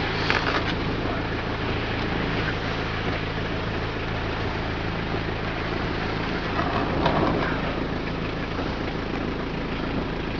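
A motor vehicle's engine running at a steady speed, a constant low hum, under a steady rushing noise.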